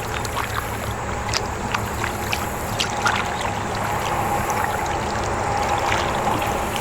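Kayak moving on creek water: small splashes and drips against the hull, scattered short clicks, over a steady low rumble.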